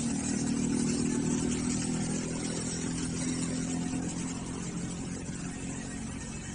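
Off-road RC car running, its motor holding a fairly steady pitch, then slowly getting quieter over the last couple of seconds.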